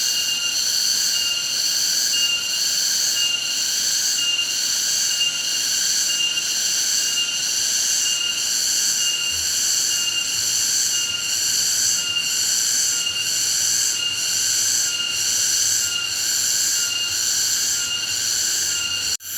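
Chorus of shrill buzzing insects, several high-pitched tones overlapping and pulsing in an even rhythm, with a brief break near the end.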